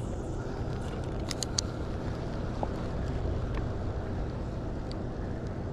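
Steady low engine drone with a faint hum, and a few light clicks about a second and a half in.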